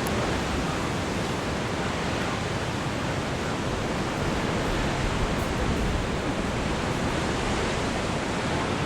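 Steady, even roar of ocean surf and wind, with no single wave crash standing out.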